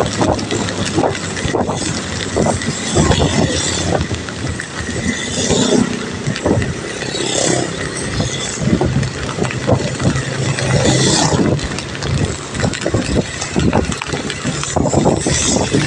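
Heavy rain falling, with many close drip and splash knocks and swells of hiss every few seconds.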